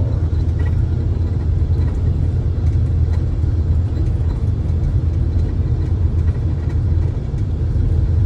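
Steady low engine and road rumble of a vehicle driving, heard from inside the cab.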